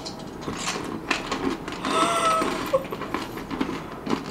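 Close-up chewing of a crunchy snack, an irregular run of crackly crunches, with a short hummed 'mm' about two seconds in.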